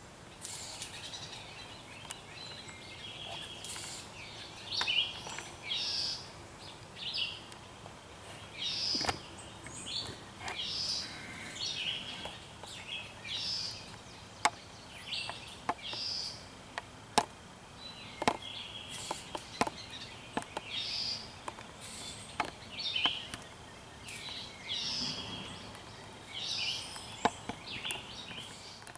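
Woodland songbirds chirping and calling in short repeated phrases, with scattered sharp clicks and snaps.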